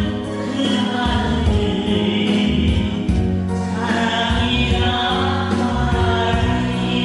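A group of voices singing a song together in unison over a backing accompaniment, with a brief pause between sung phrases about halfway through.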